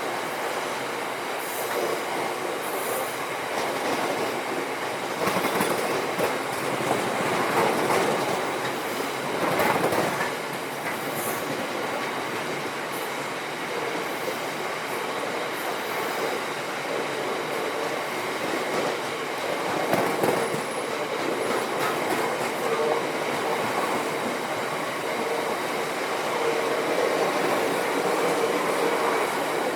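A train running past on the rails, its wheels clattering over the track with a faint squeal and occasional clanks.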